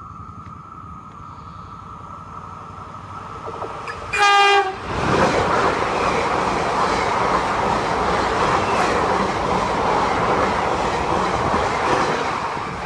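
Level-crossing warning bell ringing steadily as an electric commuter train approaches. About four seconds in the train gives one short, loud horn blast, then it passes close by with a loud rush of wheel and rail noise and clickety-clack.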